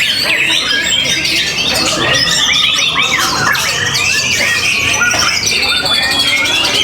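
Many caged songbirds singing at once, a dense unbroken chorus of overlapping rapid chirps, trills and whistles.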